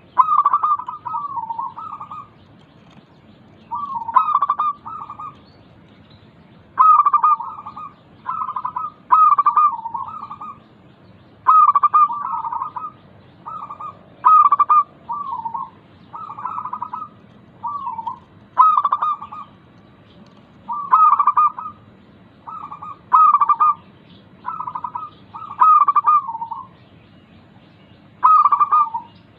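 Zebra dove (perkutut) singing: short, rippling cooing phrases, repeated about every two seconds with brief pauses between them.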